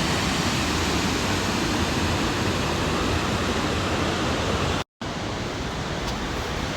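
Steady rushing noise, broken by a sudden dropout about five seconds in, after which it carries on a little softer.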